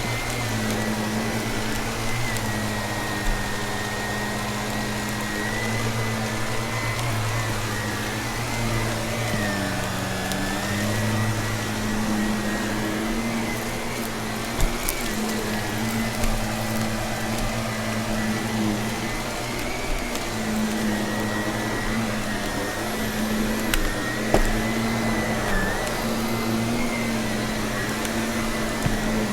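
Vacuum cleaner running steadily with a high motor whine that dips briefly in pitch several times, as when its load changes. A few sharp clicks come through as crunchy debris is sucked up.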